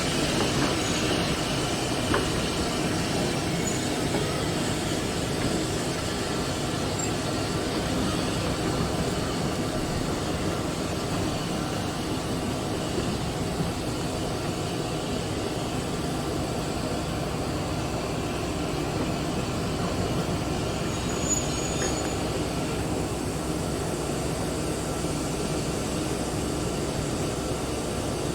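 Steam-hauled heritage train running along the line: a steady rumble of wheels on rail with a few faint clicks.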